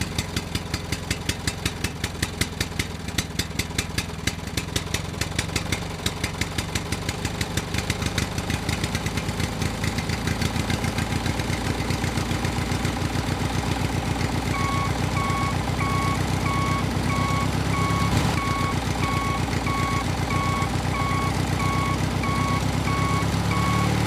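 DIY mini tractor model running, a steady mechanical chugging that starts at about three knocks a second and quickens. A bit past halfway a repeating electronic beep, like a reversing alarm, joins it, roughly one or two beeps a second.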